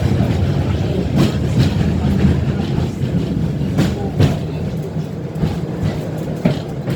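Tram running along its rails: a steady low rumble with sharp knocks of the wheels over rail joints, twice coming as a quick pair less than half a second apart.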